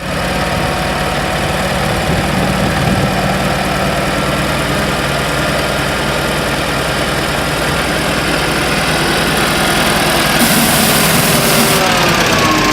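Diesel engine of a Volvo A25B articulated dump truck running steadily at idle, its pitch shifting slightly near the end.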